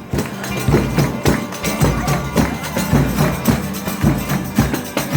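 Folia de Reis folk band playing, with a tambourine and drum beating a steady rhythm over sustained low instrument tones.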